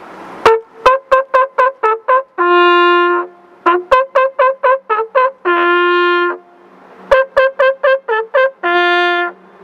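Trumpet call played from a tower: three phrases, each a quick run of short repeated notes ending in one long, lower held note.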